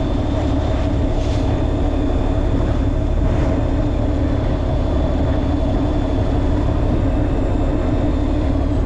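Fishing boat's engine running at a steady drone, with a thin steady high whine over it.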